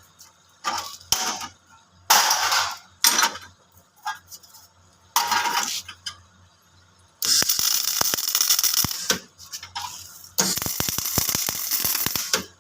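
MIG welder arc crackling and sputtering in stop-start bursts as the torch trigger is pulled and released: several short tack-like bursts, then two longer weld runs of about two seconds each.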